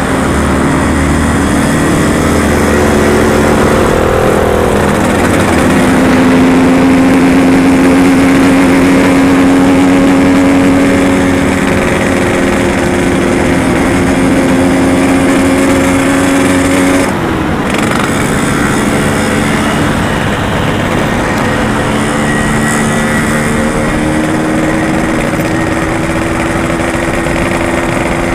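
Yamaha RX-King's single-cylinder two-stroke engine running steadily under way, dropping in level about seventeen seconds in and carrying on at a slightly lower note.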